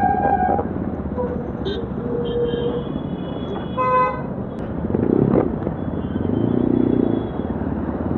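Yezdi Adventure's single-cylinder engine and exhaust running on the move, with road and traffic noise. A short horn toot sounds about four seconds in.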